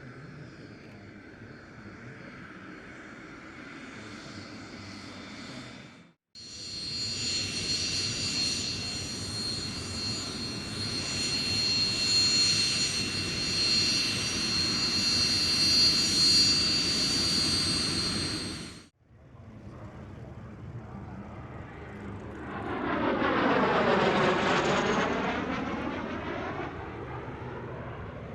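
Aircraft engine noise in three clips that cut off abruptly: the first moderate, the middle loud with a steady high-pitched whine, and the last swelling to a peak and fading as the aircraft passes by.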